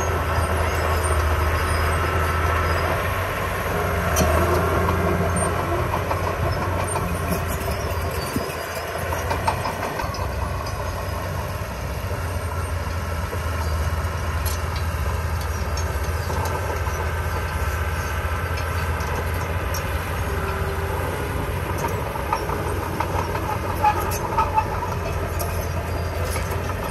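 Diesel engine of a heavy earthmoving machine running steadily under load, with a few sharp metallic knocks, two close together near the end.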